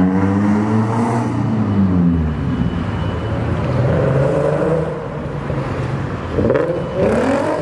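Car engines running, their pitch rising and falling several times as they rev or pull away.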